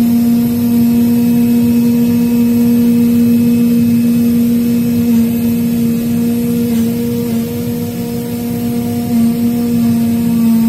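Laser leather-cutting machine running mid-cut: a steady, loud hum over a rushing hiss.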